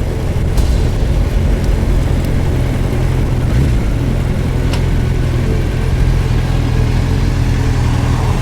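Suzuki GSX1250FA's inline-four engine running at a steady, even pitch while under way, with a constant rush of road and wind noise.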